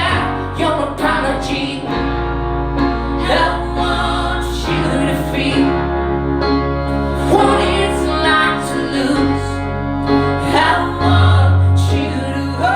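Live music: singing over instrumental accompaniment with a held bass line.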